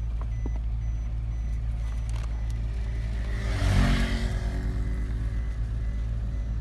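Steady low rumble of a moving road vehicle's engine and tyres, with a brief louder swell about four seconds in, as of another vehicle passing.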